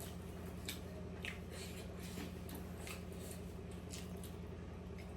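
Close-miked eating sounds as someone chews momos: scattered wet clicks and smacks of the mouth, about a dozen across the few seconds, over a steady low hum.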